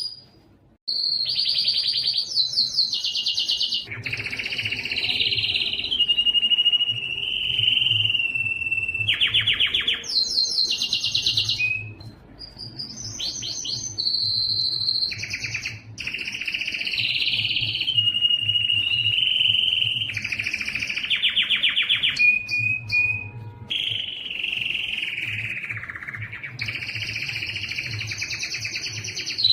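Domestic canary singing a long, continuous song of rapid trills, held whistled notes and gliding notes, switching phrase every second or two after a brief pause at the start.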